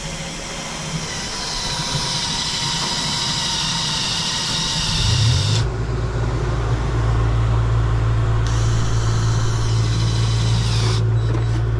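An engine running steadily, with a high hissing whine over it for the first five seconds or so. The engine then shifts pitch and settles into a steady low hum, and the hiss comes back briefly near the end.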